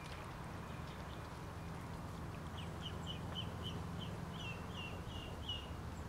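A songbird singing a run of about ten short, high notes, starting a couple of seconds in and lasting about three seconds, the last few longer and falling in pitch, over a steady low background rumble.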